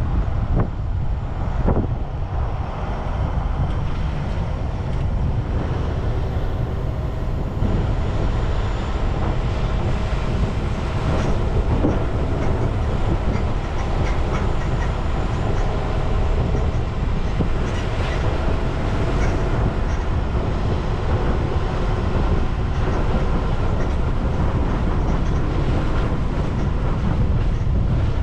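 A vehicle in motion: a steady low rumble of running and road noise, with faint steady tones and scattered light clicks and knocks.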